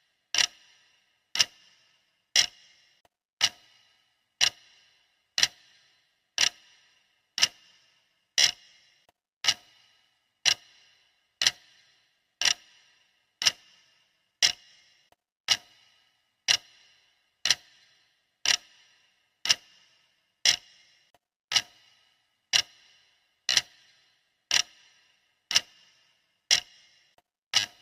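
Clock ticking steadily, one sharp tick about every second, each tick alike.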